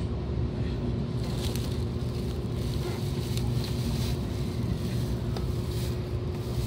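Shinkansen train running, heard inside the passenger cabin: a steady low rumble with a steady hum above it.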